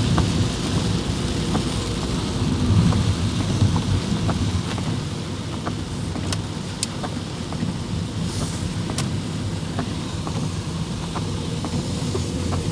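Heavy rain: a steady hiss over a low rumble, with scattered ticks of drops striking nearby surfaces.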